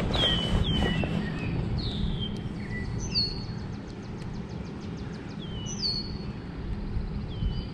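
Songbirds calling: a few short chirps that slide downward in pitch, with a fast, even trill near the middle, over a steady low outdoor rumble.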